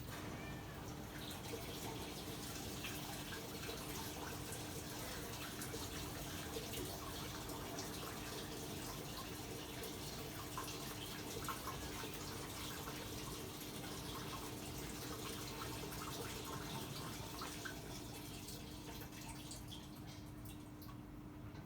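Water running into an LG top-load washing machine's tub, a steady splashing hiss with a faint hum, easing off near the end.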